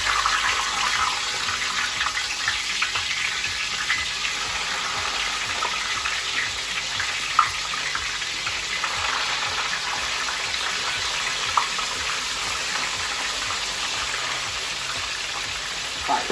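Pieces of bitter melon (karela) frying in hot oil: a steady sizzling hiss, with a couple of sharp pops of spattering oil in the middle.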